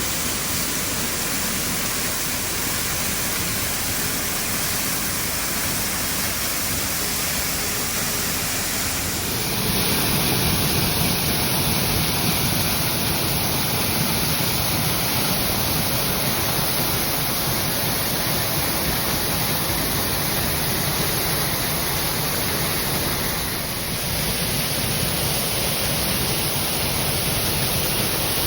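Chush Falls waterfall rushing and splashing in a steady roar of falling water. The sound shifts abruptly about nine seconds in, turning fuller and deeper.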